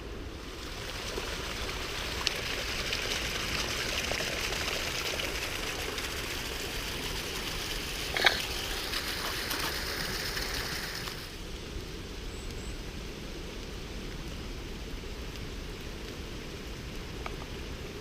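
Rushing floodwater, a steady hiss that drops away suddenly about eleven seconds in. A sharp knock about eight seconds in is the loudest single sound, with a smaller one about two seconds in, over a low rumble.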